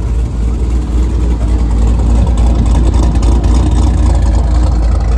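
Loud car engine running with a deep, low-pitched sound that builds over the first couple of seconds and then holds steady.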